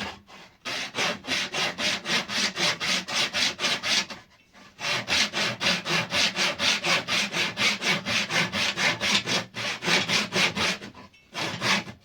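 Hand saw cutting wood in quick back-and-forth strokes, about four a second, in three runs with brief pauses about four and eleven seconds in.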